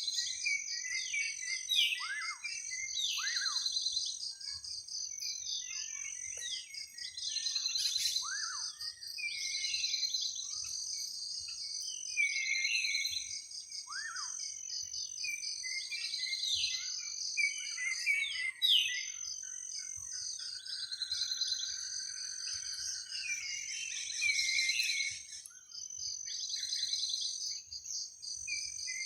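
Forest dawn chorus: a steady, high-pitched insect trill with birds chirping and calling over it, including repeated short whistled notes that sweep downward.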